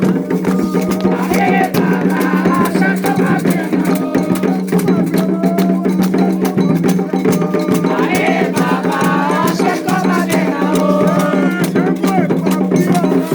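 Candomblé ritual music: drums and rattles beating a fast, dense, unbroken rhythm while voices chant, the singing swelling about a second and a half in and again from about eight to eleven seconds.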